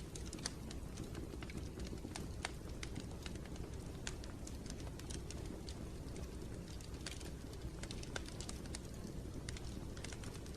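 Wood fire crackling in a fireplace: irregular sharp snaps and pops, several a second, over a steady low rumble of the burning fire.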